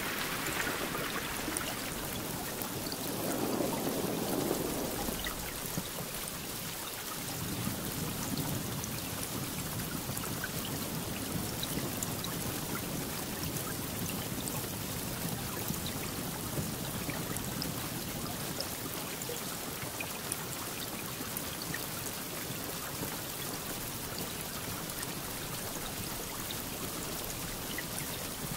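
Steady rainfall, a dense hiss with scattered drop ticks. It swells briefly about four seconds in.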